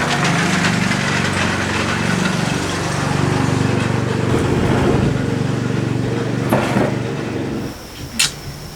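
A small engine running steadily, then falling away quickly near the end. A sharp click follows, and insects start chirping.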